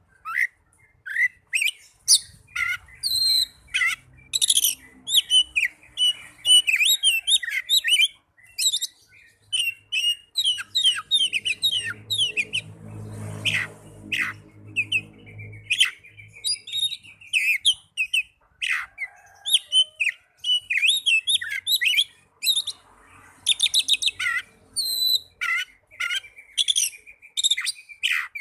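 Oriental magpie-robin (kacer) singing its aggressive fighting song: a fast, varied run of sharp whistles and chirps with short pauses, and a few scratchy rattling notes now and then.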